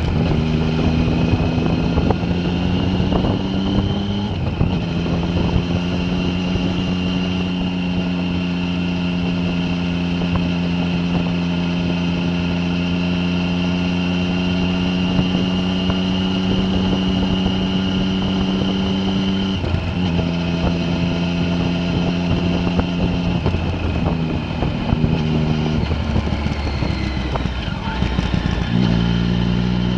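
A vehicle engine running continuously under way. Its pitch climbs in the first few seconds and drops at a gear change about four seconds in. It then holds steady, drops again a little before two-thirds of the way through, and shifts up and down near the end.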